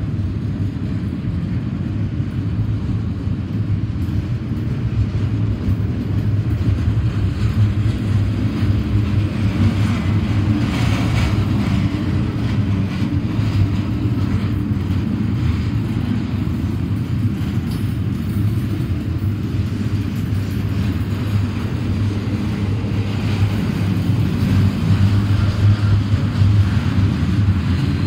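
Double-stack container train's well cars rolling past close by: the steady low roll of steel wheels on the rails.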